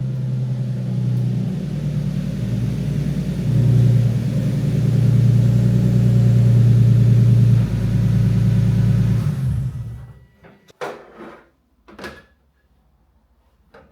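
Nissan 370Z's 3.7-litre V6 running through a rear-muffler-delete exhaust with resonators and larger tailpipes: a steady low drone that gets louder about three and a half seconds in, then stops about nine and a half seconds in. A few short knocks follow near the end.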